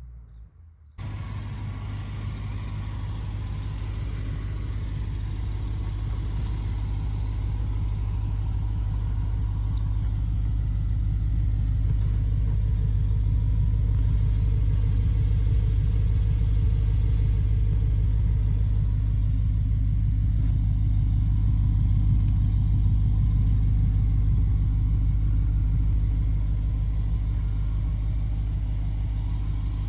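Lexus GS-F's 5-litre V8 (2UR-GSE) idling steadily through an RR Racing Valvetronic aftermarket exhaust, a deep even rumble that starts abruptly about a second in and grows slightly louder.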